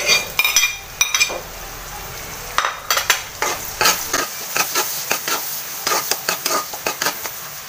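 Butter and garlic sizzling in a metal wok as chopped onion goes in, with a few taps of the utensil on the plate at the start. From about three seconds in, a metal utensil stirs quickly, scraping and clinking against the pan several times a second over the steady sizzle.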